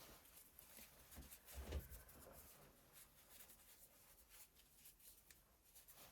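Faint handling noises of small parts: light clicks and scratchy rubbing, with a soft low thump a little under two seconds in.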